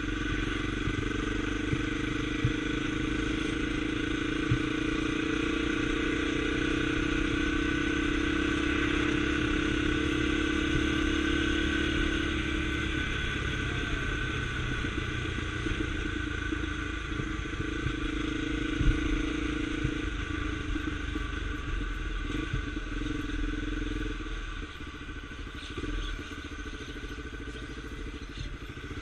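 Single-cylinder engine of a Honda Tornado scrambler motorcycle running at a steady pace under way, with wind rumble on the microphone. The engine note eases off about halfway through and picks up again later.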